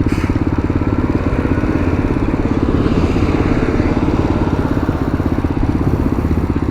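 Tao Tao TBR7 dual-sport motorcycle's single-cylinder engine running steadily under way at riding speed, with road and wind noise over it.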